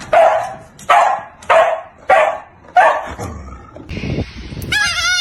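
Dog barking, five loud barks about every 0.6 s in the first three seconds, then quieter. Near the end comes a brief wavering high-pitched call.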